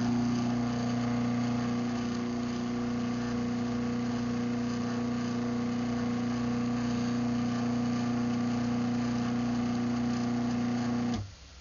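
Craftsman 139.53930DM half-horsepower garage door opener motor running steadily through an opening cycle, triggered by a remote, with a low electric-motor hum. It stops abruptly about eleven seconds in, at the end of its travel.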